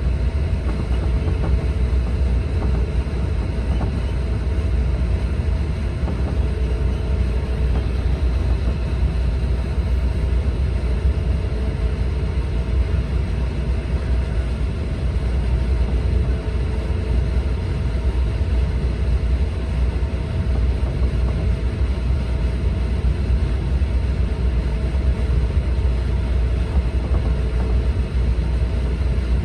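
Steady low rumble of an E4 series Max Shinkansen train running, heard inside the passenger cabin, with a faint steady whine over it.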